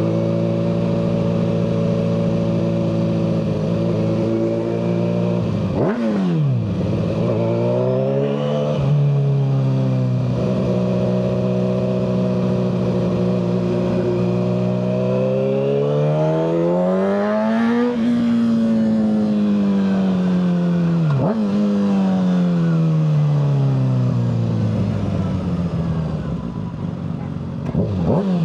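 Kawasaki ZX-6R 636's inline-four engine through a Yoshimura full exhaust, heard while riding. The note holds steady, rises with acceleration to a peak about two-thirds of the way in, then falls away as it slows, with two quick dips in pitch along the way.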